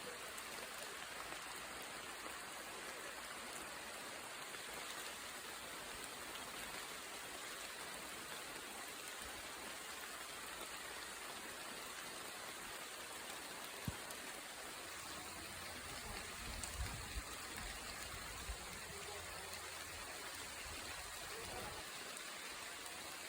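Steady rain falling in a forest, an even hiss of drops on leaves and ground. A sharp tick stands out about fourteen seconds in, and a few softer knocks with a low rumble come a few seconds later.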